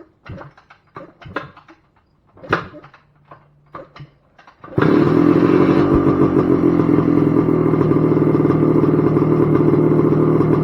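Several kicks on the kickstarter of a 1978 Yamaha IT250's single-cylinder two-stroke engine, heard as irregular mechanical clatters. Nearly halfway through the engine catches on a cold start with the choke on and keeps running steadily and loudly.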